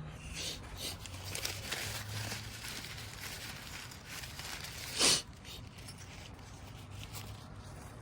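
Rustling and handling noises, like packaging being crinkled or torn, with one short, louder crinkle or tear about five seconds in.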